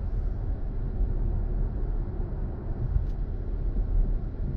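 Steady low rumble of tyre and road noise heard inside the cabin of a moving BMW i4 M50, an electric car with no engine note.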